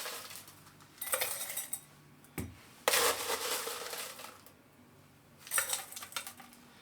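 Crushed ice being tipped into a wine glass, rattling and clinking against the glass in three short bursts.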